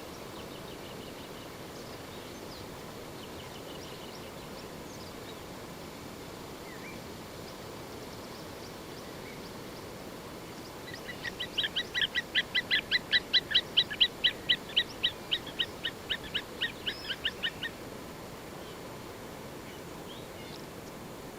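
A bird calling in a rapid series of about thirty short, evenly spaced notes, roughly four or five a second, growing louder and then tailing off, over a steady outdoor hiss with faint chirps from other birds.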